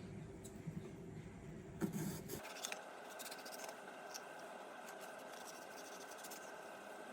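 Kitchen food-preparation sounds: light scratching and scraping with a few small clicks, the loudest about two seconds in. A low hum cuts off abruptly about two and a half seconds in and gives way to a steady higher hiss.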